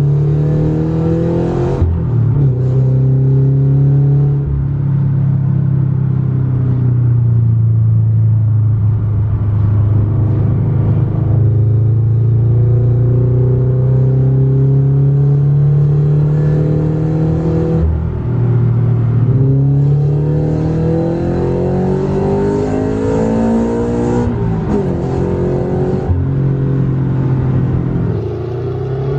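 A Toyota GT86's flat-four boxer engine running through a freshly built custom exhaust while the car is driven. The engine note repeatedly climbs as the car accelerates and drops back, with steadier stretches of cruising in between.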